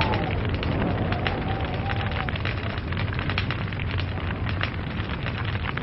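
Log fire burning with dense, irregular crackles and pops over a steady low rumble of flame, with a faint wavering whistle near the start and again about two seconds in.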